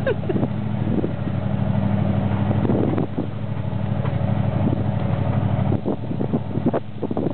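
Jeep Wagoneer's engine running steadily as the vehicle drives slowly over a rough dirt track, with scattered knocks and rattles from the jolts. The hum dips briefly about six seconds in.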